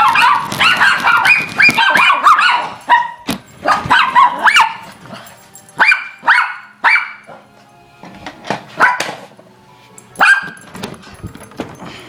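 A dog barking and yipping repeatedly: quick clusters of short, falling-pitched barks in the first few seconds, then scattered single barks with short pauses between them.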